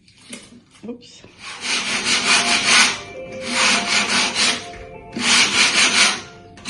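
A hand tool worked back and forth across the wooden edge of a kitchen countertop in three long bursts of quick rasping strokes after a couple of short scrapes, trimming off the excess.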